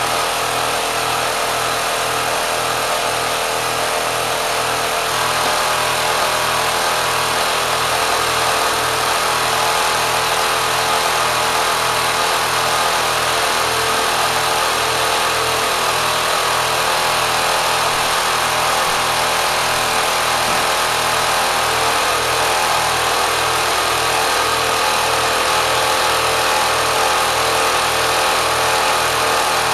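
Steady running of a repowered Kenmore sewing machine driven by a 3/4 hp electric motor at high speed, with a slow, regular throb underneath.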